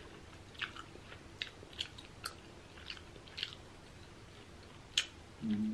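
Closed-mouth chewing of a bite of pizza: a string of small, irregular wet mouth clicks. Near the end a short hummed "mm" begins.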